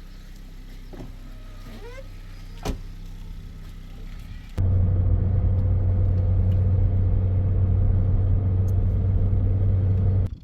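A steady low mechanical rumble, like a running engine, starts suddenly about halfway through, much louder than the fainter hum before it, and stops abruptly just before the end.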